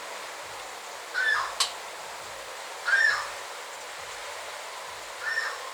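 A night bird in a tree giving a short call three times, about every two seconds, over a steady background hiss. A single sharp click comes just after the first call.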